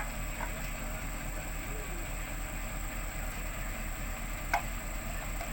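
Heavy diesel engine idling steadily, with two short sharp knocks, one at the start and one near the end.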